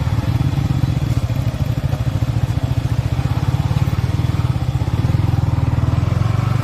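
Motorcycle engine running steadily under way, a low, fast, even pulsing rumble.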